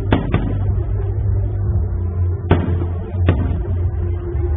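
Fireworks shells bursting in sharp bangs, two close together at the start and two more about halfway through, over loud music with a steady low bass playing with the display.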